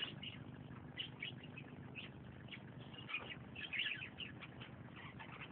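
Faint bird ambience: scattered short, high chirps over a low steady hum.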